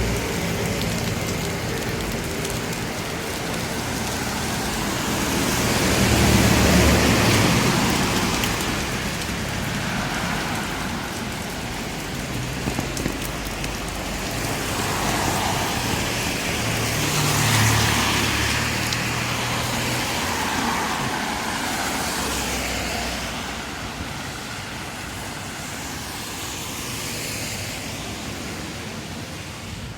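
Steady rain falling on a city street, with cars going by on the wet road. The traffic swells louder about six to eight seconds in and again around seventeen seconds, with an engine's low hum in between.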